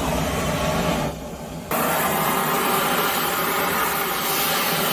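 Oxy-acetylene torch flame burning with a steady, loud hiss. It drops off briefly a little over a second in, then comes back a bit stronger.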